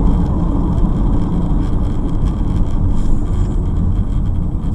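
Steady low rumble of a vehicle on the move, engine and tyre noise heard from inside the cab.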